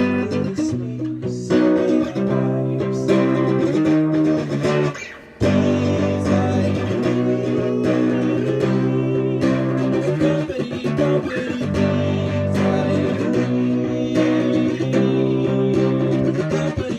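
Acoustic guitar strummed over a low bass line in an instrumental stretch of a song, breaking off briefly about five seconds in before carrying on.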